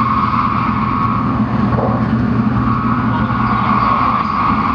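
Shinkansen train running, heard from inside the passenger cabin: a steady rumble with a constant hum.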